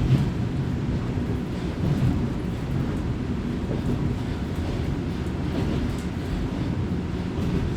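Kominato Railway diesel railcar running along the line, heard from inside the passenger cabin: a steady low rumble of engine and wheels on rails, with faint scattered clicks.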